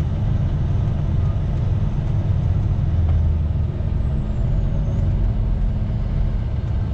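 International LT semi truck's diesel engine running steadily, heard from inside the cab.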